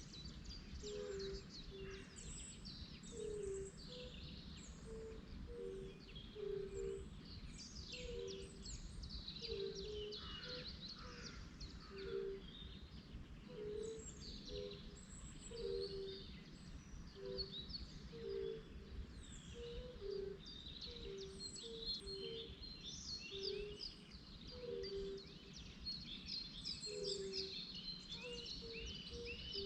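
Many birds singing and calling at once in a dense dawn chorus of quick high chirps and trills. Under them a low, short two-pitched call repeats about once or twice a second, over a steady low rumble.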